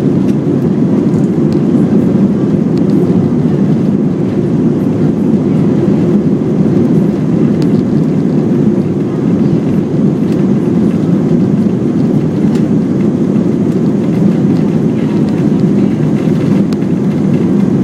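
Airbus A320 airliner's engine and airflow noise heard inside the passenger cabin during takeoff: a steady, low, rushing drone with no change in pitch or loudness.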